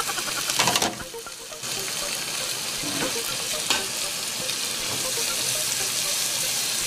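Seafood, onion and cherry tomatoes sizzling in a nonstick frying pan over a gas flame, with a few short knocks of a wooden spatula and pan. The sizzle dips briefly about a second in, then runs steadily.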